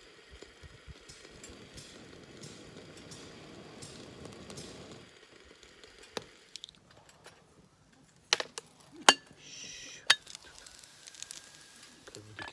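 Food sizzling in a pan for about five seconds, then a few sharp clinks of cookware and utensils.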